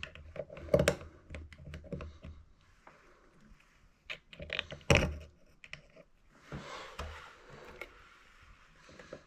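Hand tools clicking and knocking on the metal of an old Valley tub valve as its cartridge is worked loose, with sharper knocks about a second in and again about five seconds in.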